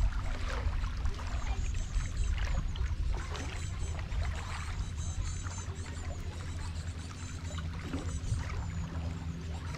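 Rain falling, with irregular drips and splashes and water lapping, over a steady low rumble.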